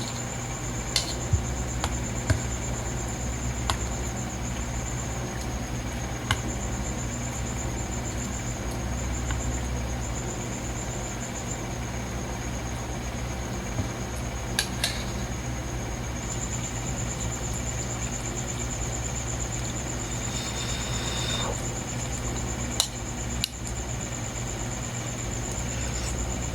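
Steady low room hum with a faint high whine, broken by scattered sharp clicks and light knocks of tableware. A short rustle comes about two-thirds of the way through.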